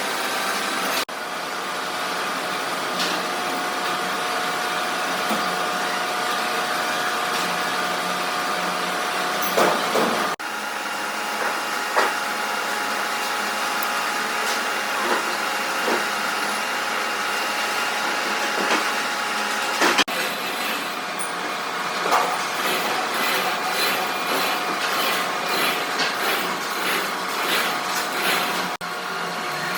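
Workshop machinery running steadily, a noisy mechanical drone with a few steady tones and occasional knocks, changing abruptly several times.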